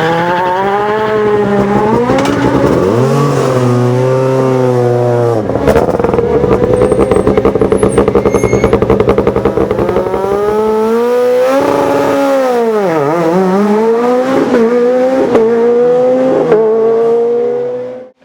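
Rally car engines running hard on a stage, revving up through the gears with the pitch dropping at each shift. About thirteen seconds in the revs fall sharply and climb again as a car lifts off and re-accelerates. The sound cuts off suddenly near the end.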